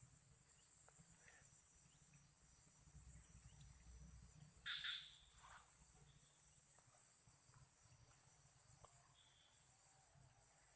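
Faint, steady high-pitched insect chorus, crickets chirring without a break, with one brief faint noise about halfway through.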